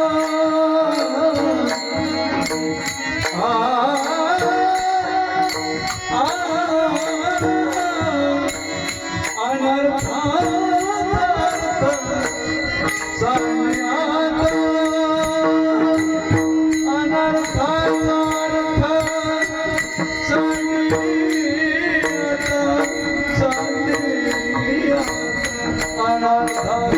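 A male devotional singer sings a Marathi bhajan in long, gliding phrases over a steady held drone, with rhythmic percussion strokes keeping time.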